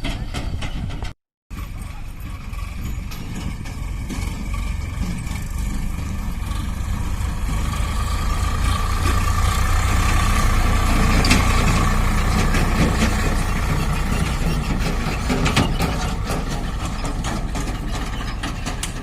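Sonalika DI 47 RX tractor's diesel engine running under load while hauling a loaded trolley, with clattering and rattling from the rig. The sound cuts out for a moment about a second in, then grows louder to a peak about halfway through and slowly fades.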